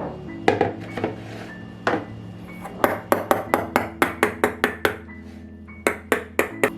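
A metal utensil striking a dish in quick repeated clinks, about five a second, in short runs, like kitchen beating or stirring, over soft background music.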